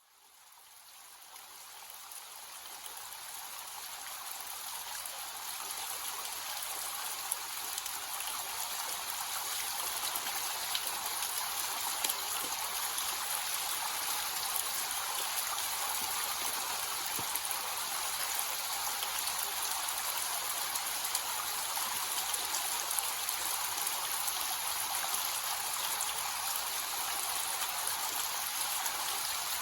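Small waterfall with a light flow, water splashing and pattering steadily, with small drips throughout. It fades in from silence over the first several seconds.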